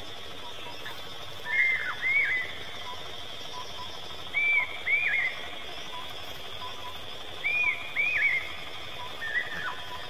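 A bird calling: pairs of short, arched whistled notes that rise and drop away, given four times about every three seconds, over a steady high-pitched background drone.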